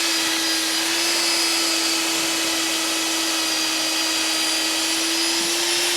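A power tool's motor running at one steady speed, a constant hum under a strong hiss, cutting off suddenly at the very end.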